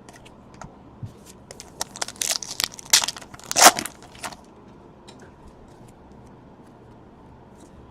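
Crinkling and tearing of a trading-card pack's wrapper as it is ripped open: a string of sharp crackles, loudest about three and a half seconds in, then quiet handling.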